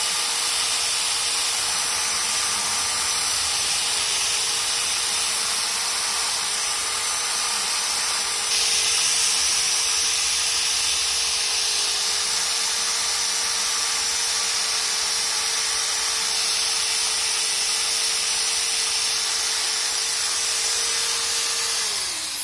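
Belt sander running with 120-grit paper, rough-sanding a brush-plated copper layer on a chrome-plated roller: a steady whine over a gritty hiss. The hiss grows louder about eight seconds in, and near the end the whine falls in pitch as the sander winds down.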